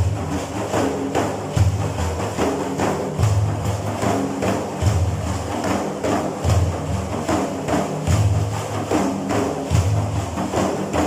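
Frame drums (daf) beating a steady rhythmic pattern between sung verses of a mawlid, a heavy low stroke recurring about every second and a half with many lighter taps and jingles in between.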